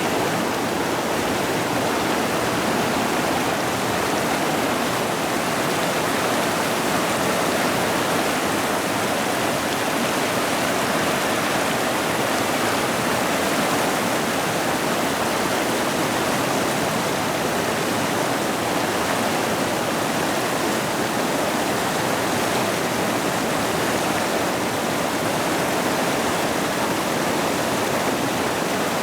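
Forest creek rushing over rocks: a steady, even water noise with no breaks.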